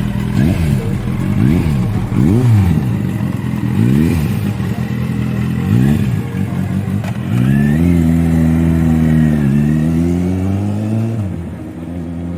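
Motorcycle engine revved in a series of quick throttle blips, its pitch rising and falling about once a second. It then climbs to a higher pitch and holds it for about four seconds, with one brief dip, before dropping away near the end.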